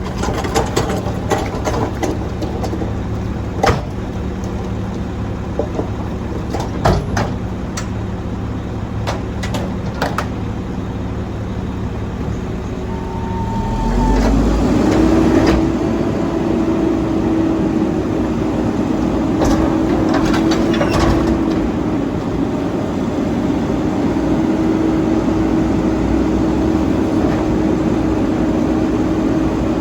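Straight-piped Mack MR garbage truck's diesel engine idling, with scattered clanks and knocks. About halfway through it throttles up and holds a higher, steady engine speed.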